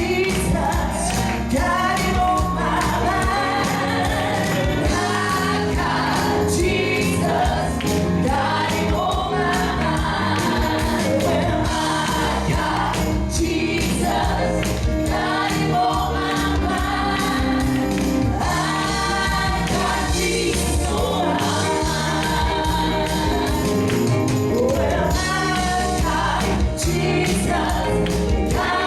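Gospel song with group singing over a live band with a steady beat.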